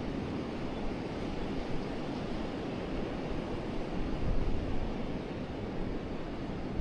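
Forest river flowing, a steady rush of water, with a low wind rumble on the microphone swelling briefly about two-thirds of the way through.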